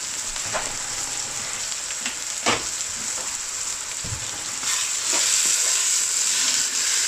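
Chopped onions and whole spices sizzling in hot oil in a pan, with a few short knocks as a spoon stirs them. The sizzle grows louder about five seconds in.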